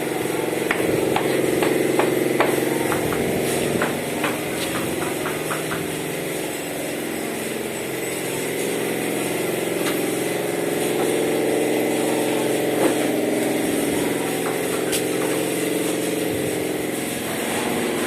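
An engine running steadily at idle, with a cluster of light sharp taps in the first few seconds and a few more later.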